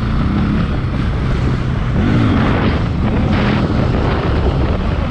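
Wind rushing over the camera's built-in microphone while riding a 300 cc motorcycle, with the engine running underneath. The engine pitch rises and falls briefly about two seconds in.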